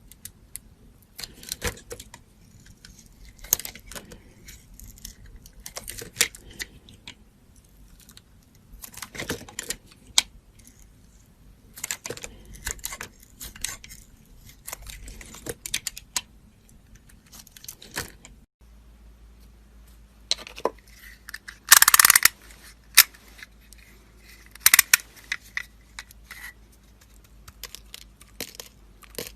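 A knife cutting and carving bars of soap: a series of short, crisp cutting strokes and clicks at irregular intervals, the loudest about 22 seconds in.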